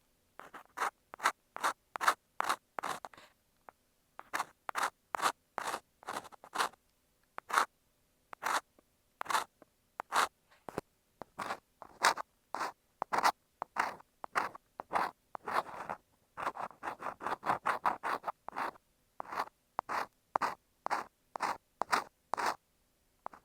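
Ear pick scraping inside an earphone microphone in a long series of short, crisp scratches, two to three a second, with brief pauses between runs.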